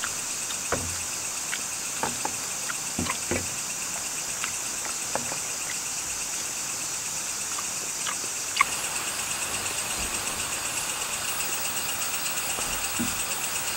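Steady high-pitched chirring of insects such as crickets in the forest, turning into an even, rapid pulsing about two-thirds of the way in. Scattered faint clicks and taps sound over it.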